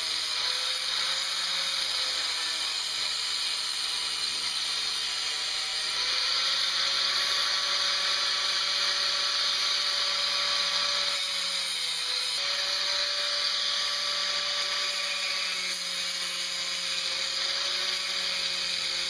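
Angle grinder running continuously as it grinds metal, a steady high-pitched whine and hiss whose pitch sags briefly about twelve seconds in as it is pressed harder into the work.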